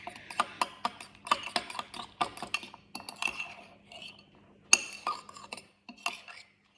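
A fork clinking and scraping against a bowl while mixing mashed boiled eggs with curry powder: irregular taps, a few a second, stopping briefly near the end.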